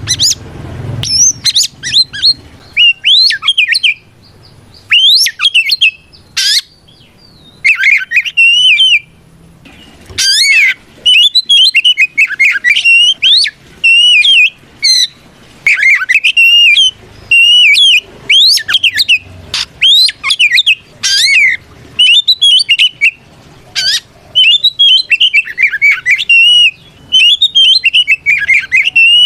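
Oriental magpie-robin (kacer) singing loud, continuous challenge song: a rapid run of varied, sweeping whistled phrases with brief pauses between them, the song of a male calling out a rival.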